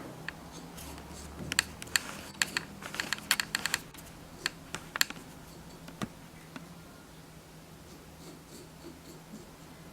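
Irregular small clicks, taps and scrapes of a stick spreading thick paste glue on a plaster board. They come densely for the first few seconds, then thin out and grow fainter.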